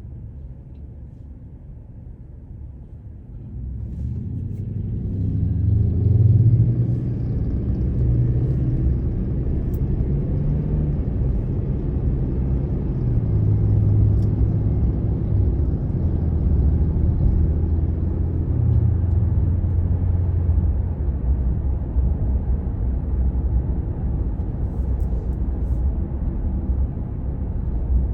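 Motor vehicle engine rumbling: it grows louder about four seconds in and then runs steadily, with a low hum that rises and falls in pitch as it moves in traffic.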